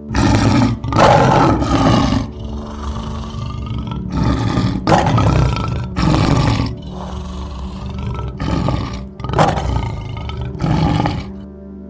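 A big cat roaring in a series of about nine rough calls, each under a second, in three bouts, over soft background music.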